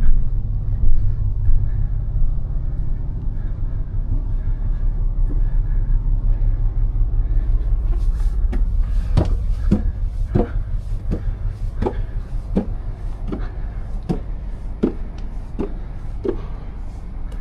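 Low steady rumble of the liveaboard boat's engine. From about halfway there is a run of about a dozen evenly spaced hollow knocks, roughly one every 0.7 seconds.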